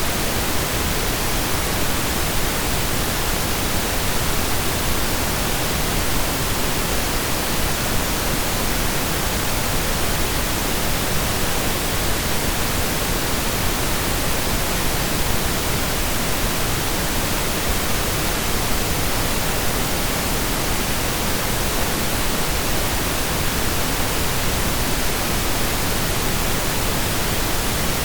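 Steady synthesized pink noise: an even hiss spread across the whole audible range, with equal energy per octave, unchanging throughout.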